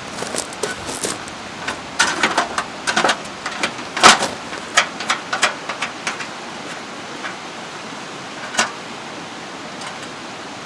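A run of sharp clicks and knocks, thickest in the middle with the loudest about four seconds in, over the steady rush of a mountain stream.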